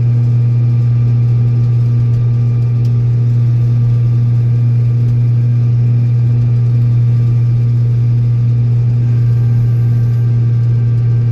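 Old Steiger four-wheel-drive tractor's diesel engine running steadily, a loud constant low drone that holds one pitch without revving up or down.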